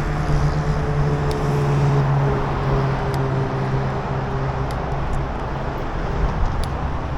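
Road traffic: a motor vehicle's engine running close by, its note slowly falling and fading, over a steady wash of traffic noise.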